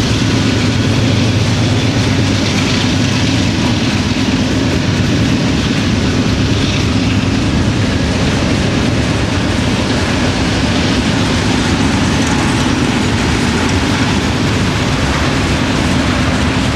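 Freight cars (covered hoppers and tank cars) rolling past: a steady rumble and clatter of steel wheels on the rails.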